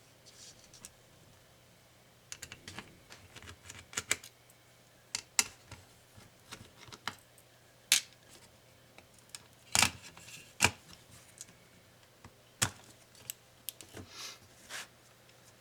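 Irregular clicks, taps and light scrapes of small plastic and metal laptop parts and hand tools being handled during disassembly, with a few sharper knocks around the middle.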